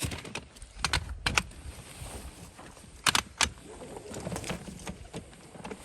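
The rooftop tent's ladder being grabbed and handled: several sharp metallic clicks and clanks with rustling in between.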